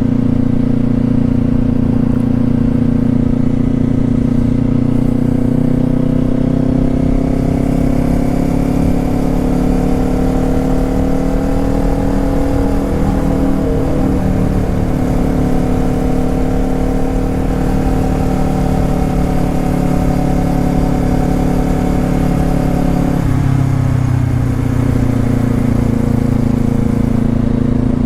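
Motorcycle engine running at road speed, its note rising slowly and easing back, then dropping about 23 seconds in as the throttle or gear changes.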